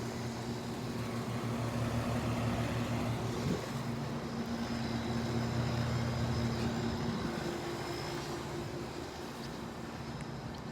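Air conditioner unit running with a steady electrical hum, its tone shifting about three and a half seconds in and again about seven seconds in.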